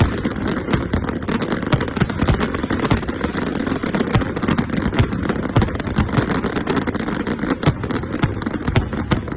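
Fireworks display: a dense, irregular barrage of bangs and crackles over a steady rumbling bed, several reports each second.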